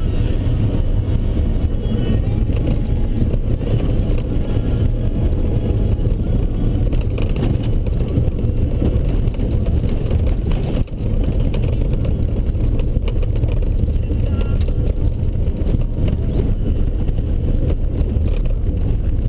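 Ford Ranger driving: a steady, loud low rumble of engine and tyres, with a brief drop about eleven seconds in.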